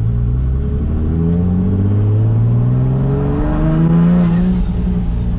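Big-turbo Nissan 350Z's VQ35HR V6 accelerating, the engine note climbing steadily for about three and a half seconds, then dropping near the end as it comes off the throttle or shifts. A faint high whistle rises and falls with it.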